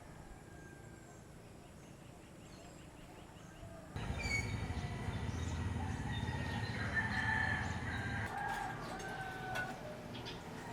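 Faint quiet ambience, then, about four seconds in, a sudden step up to louder outdoor sound with roosters crowing over a low rumble.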